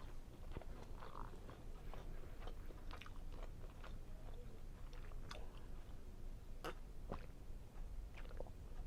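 A person chewing a mouthful of seafood linguine Alfredo close to the microphone, faint wet mouth sounds with scattered sharp clicks and smacks.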